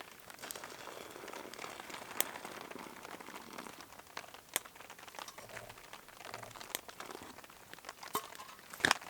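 Faint crinkling and rustling of a foil-packed dehydrated meal pouch being handled and opened, with scattered sharp clicks and crackles.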